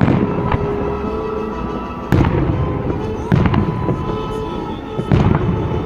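Aerial firework shells bursting in a display: four sharp booms, one at the start and then about 2, 3.3 and 5 seconds in, with rumbling echoes and crackling between them.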